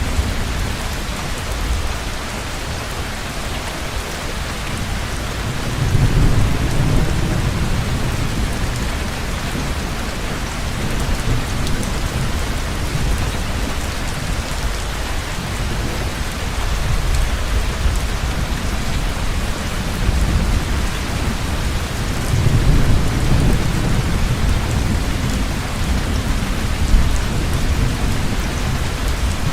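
Heavy rain falling steadily, with rolls of low thunder swelling up about six seconds in and again a little past twenty seconds.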